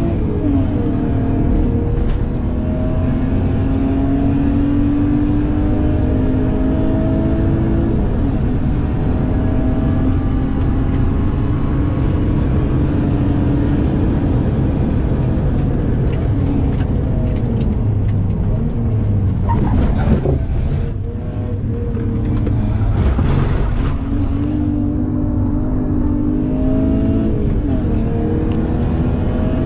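BMW E36's 3.0-litre straight-six (M50 iron block with S50B30 US crank and pistons, E46 330i exhaust) heard from inside the cabin under hard acceleration on a track lap, its note climbing in pitch through the gears with breaks at the gear changes. About twenty seconds in the revs drop off briefly, then the engine pulls and climbs again; it sounds healthy, though the car feels sluggish for its size.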